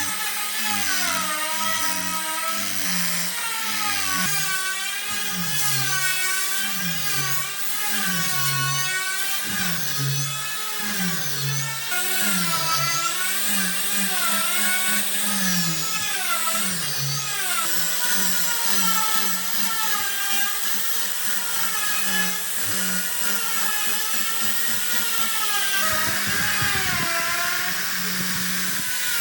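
A high-pitched power tool whining steadily, its pitch dipping and recovering again and again as it is pressed into the wood. Near the end the pitch steadies and a rougher cutting noise comes in.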